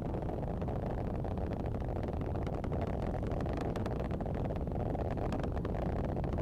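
Falcon 9 first stage's nine Merlin 1D engines during ascent: a steady deep rumble with dense crackling through it.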